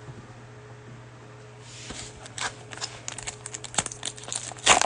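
Crinkling of a trading-card pack wrapper and rustle of cards being handled, starting about a second and a half in and growing denser toward the end, over a faint steady hum.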